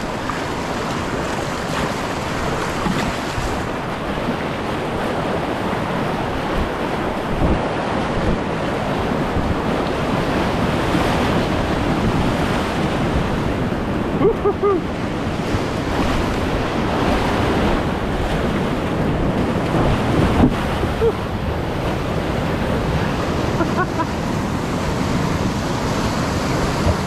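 Whitewater rapids rushing steadily around a kayak on a river running high, with water and wind buffeting the microphone.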